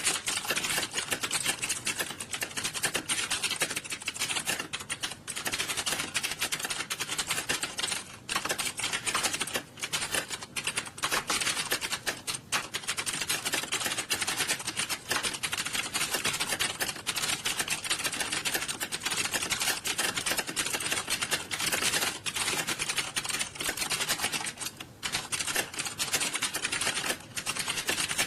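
Many computer keyboards being typed on fast at the same time during a timed typing test, a dense, unbroken clatter of keystrokes with a few brief lulls.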